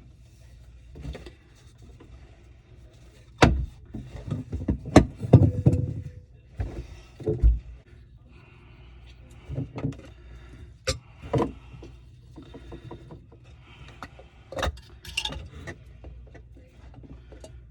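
Tools and drain parts being handled during plumbing work under a kitchen sink: irregular knocks, clicks and clatter, busiest a few seconds in and again in the second half.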